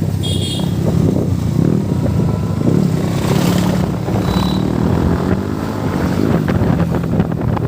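Motorcycle engine running under way while riding, its note rising and falling a little, with wind noise on the microphone.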